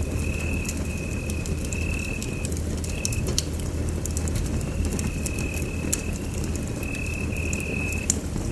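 Wood fire burning in a fireplace: a steady low rumble with scattered crackles and pops, and a thin high whistle that comes and goes in short stretches.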